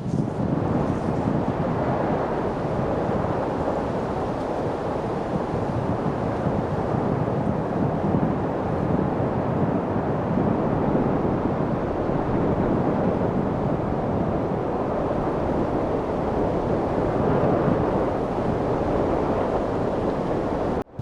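Steady light wind noise, an even rushing hiss that swells and eases gently, cutting out for an instant near the end.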